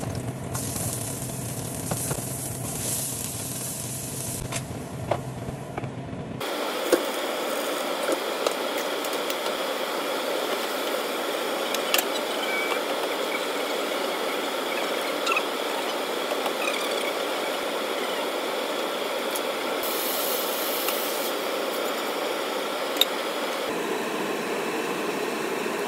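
Food sizzling in hot oil in a nonstick wok as garlic, onion and tomato, then mung beans, are sautéed, with a steady hiss and occasional clicks and scrapes of the spatula against the pan. The sound changes abruptly about six seconds in, where the video cuts to a later stage of the frying.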